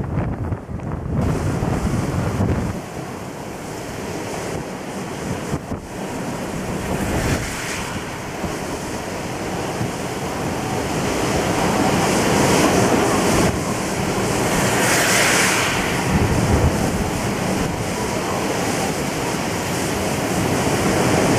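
Typhoon winds gusting hard and buffeting the microphone in a loud, rushing roar. The gusts swell and ease, growing stronger about halfway through.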